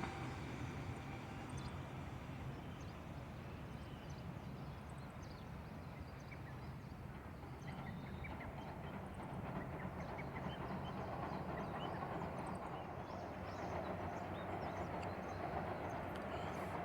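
Train on the Nippo Main Line heard as a steady low rumble, growing somewhat louder in the second half.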